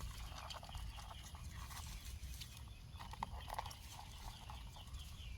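Faint clicks and rustles over a low wind rumble, with a run of small high chirps from a bird near the end.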